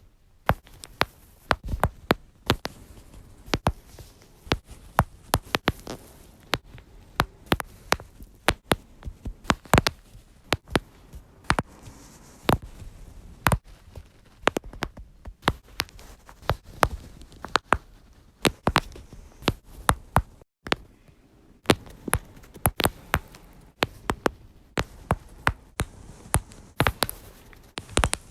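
Many sharp cracks and pops from a person's lower-back joints, coming irregularly, often several in quick succession, with a brief break about twenty seconds in.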